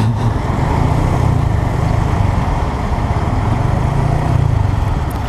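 A Honda Grom's small single-cylinder engine running steadily at low revs, its pitch swelling and easing slightly, over wind rush on the helmet microphone.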